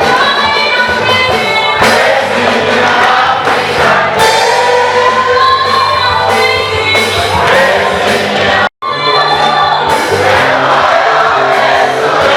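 Choir singing an African gospel song over instrumental accompaniment with steady low bass notes. The sound cuts out for an instant about nine seconds in.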